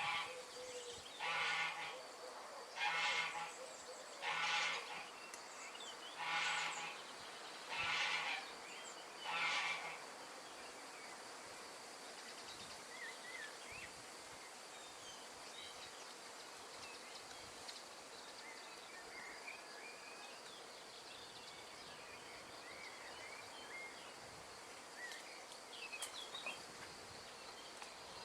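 Outdoor nature ambience: a steady hiss of wind, with an animal call repeated six times, about one every one and a half seconds, in the first ten seconds. After that only faint, scattered bird chirps sound over the hiss.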